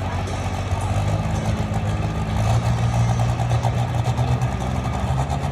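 Truck engine running hard while pulling the weighted sled in a truck pull, its pitch stepping up slightly about halfway through.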